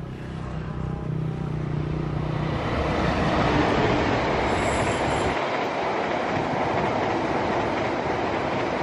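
Diesel-hauled passenger train approaching and passing close by: it grows louder over the first three seconds or so, with a low engine hum at first, then settles into a steady rush of wheels on the rails as the coaches go by.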